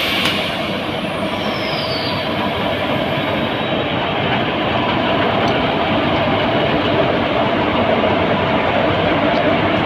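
Passenger train running on the rails, a steady rumble of wheels and carriages that grows slightly louder.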